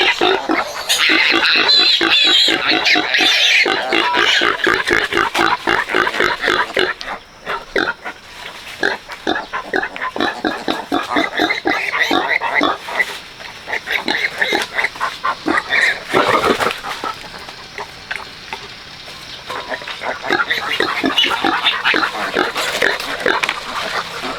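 A sow and her newborn piglets grunting and squealing in a dense, rapid chorus, easing off briefly a couple of times.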